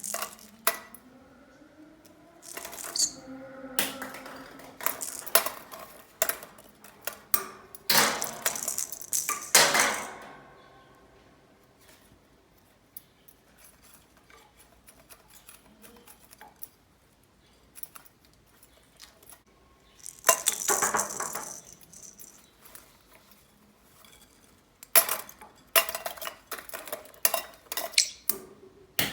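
Toy balls clattering and rolling on a hard surface as a conure plays with them: bursts of rapid clicks and rattles with quiet stretches between.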